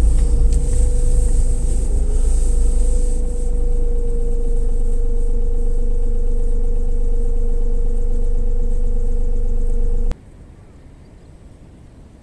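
A steady low engine rumble with a constant hum, like a running vehicle. It cuts off abruptly about ten seconds in, leaving only a faint background.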